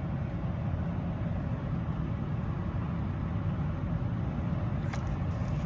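Steady low rumble of a running vehicle engine, with a faint click about five seconds in.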